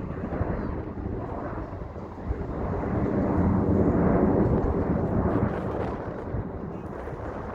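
Airplane engine roar from a plane flying past, swelling to a peak about halfway through and then fading.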